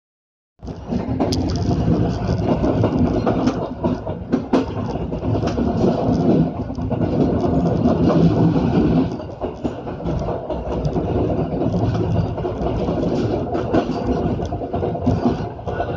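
Passenger train running along the rails, heard from the rear of the train: a steady rumble of wheels and carriages with a few sharp clacks from the wheels over the track.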